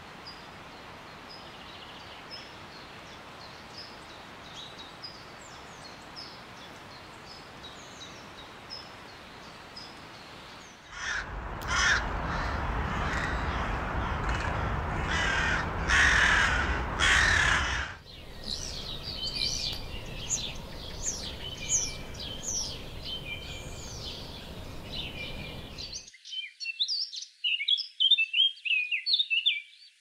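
A series of birdsong recordings. First come short high chirps repeated about once a second over a steady hiss. Then, about eleven seconds in, a laughing kookaburra gives its loud cackling call for about seven seconds, followed by more chirping birds and a quick burst of high chirps near the end.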